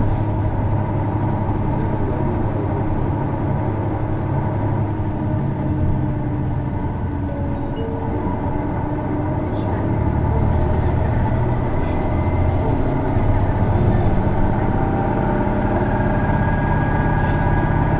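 Isuzu Erga city bus's diesel engine running under way, heard from inside the cabin: a steady engine drone that picks up a little about ten seconds in. This bus's engine has a distinctive abnormal noise, a trait also found on other PKG-series Ergas.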